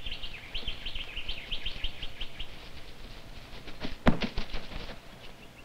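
Small birds chirping in quick, short notes, several a second. About four seconds in there is a sharp thump, the loudest sound here, followed by a few softer knocks.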